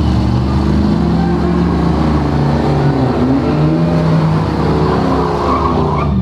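Car engine running loud and steady at high revs during a burnout, with a dense rushing noise over the engine note and the pitch shifting slightly.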